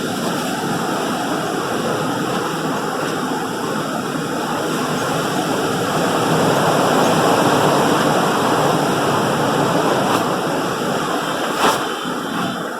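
Tropical-storm wind gusting through trees, a loud rushing noise that swells about six seconds in and eases toward the end. A single sharp tick sounds near the end.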